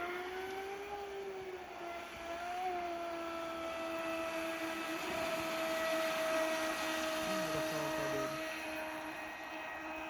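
RC model boat's motor whining steadily, rising slightly in pitch twice in the first few seconds and then holding level.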